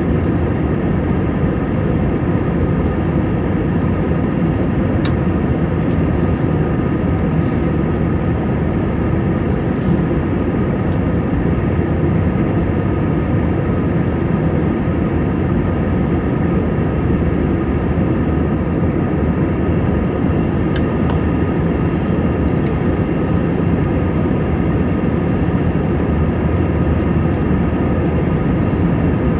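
Steady drone of an Airbus A320 in flight: engine and airflow noise, heavy and low, with a few faint steady tones above it, as heard inside the cabin.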